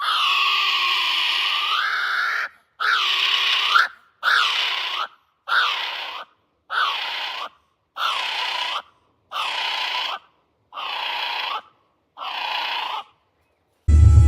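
A bird giving harsh, raspy screeching calls: one long screech of about two and a half seconds, then eight shorter ones of about a second each, evenly spaced, each rising in pitch at its end.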